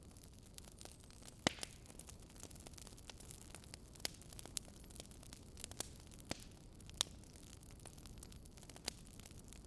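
Faint wood fire crackling: sharp, irregular pops, about eight of them, over a steady low hum and hiss.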